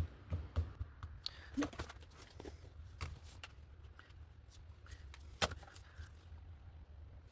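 Paper cut-outs and craft supplies handled on a work table: scattered light taps and clicks, the sharpest about five and a half seconds in, over a low steady hum.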